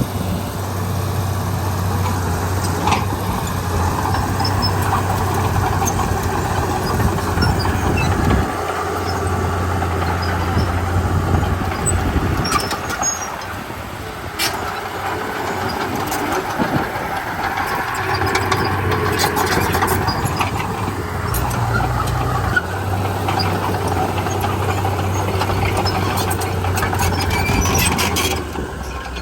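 Komatsu D31P crawler bulldozer at work: its diesel engine runs steadily, its low note dropping away for a few seconds twice and then coming back, under scattered short squeaks and clicks.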